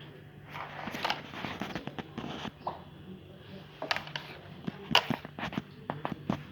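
A run of irregular clicks and knocks, clustered near the start and again in the second half, over a steady low hum.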